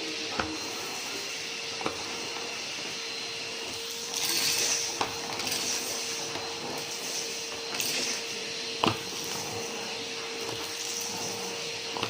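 Numatic James tub vacuum cleaner running with a steady motor hum while picking up a dry test mess. Scattered sharp clicks and crunches come as debris is sucked up, the loudest about nine seconds in, with louder rushes of suction about four seconds in and again near eight seconds.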